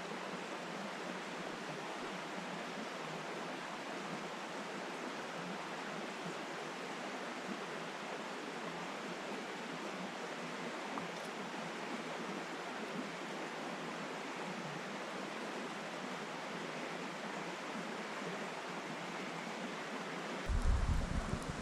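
Steady rushing of a flowing river, an even hiss with no distinct events. About a second before the end a low, uneven rumble cuts in.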